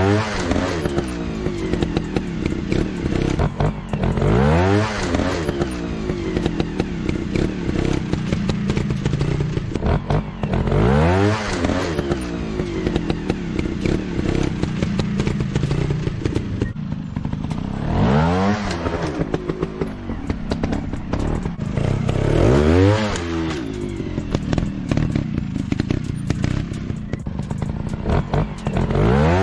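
Dirt bike engines running and revving in repeated throttle bursts, the pitch rising and falling about six times, with steady lower running between bursts.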